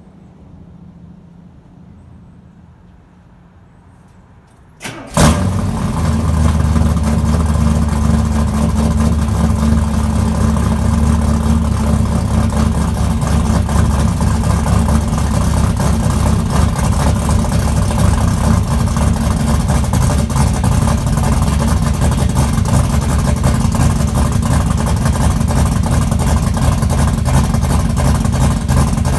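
A 1970 Chevelle's 358 cu in small-block Chevy V8, fitted with a Howard's roller cam, Doug's headers and Pypes Violator exhaust, firing up from cold about five seconds in, then running at a loud, steady idle.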